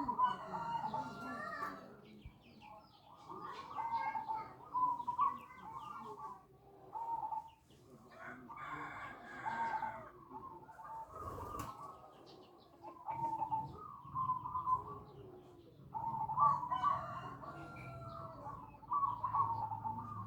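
Several birds calling over and over, their phrases overlapping in clusters every second or two.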